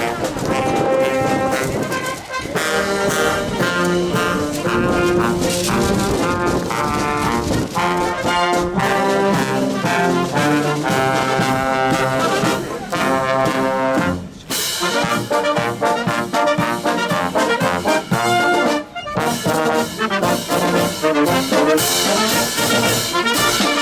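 Marching band playing a tune as it passes in a parade.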